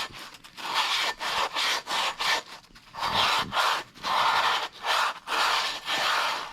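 Brake pad being scuffed by hand with an abrasive, a rasping back-and-forth scraping in repeated strokes of about half a second, one or two a second, with a short pause midway; really loud.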